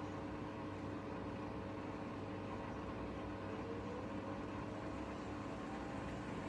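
Bosch Serie 4 front-loading washing machine running mid-cycle: a steady motor hum with a faint whine that rises in pitch a few seconds in and again near the end as the drum speeds up.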